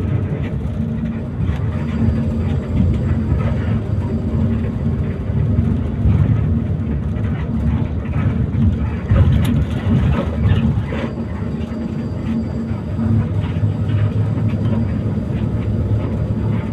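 Intercity coach bus's engine and road noise heard from inside the moving bus: a steady low drone, with a few short rattles or knocks around the middle.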